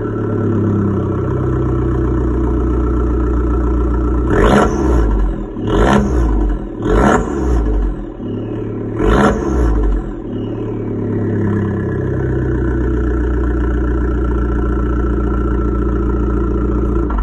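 Abarth 1.4 T-Jet turbocharged four-cylinder idling after a cold start with its exhaust valve open, blipped up in revs four times in quick succession about four to ten seconds in, each rev dropping straight back to the steady idle.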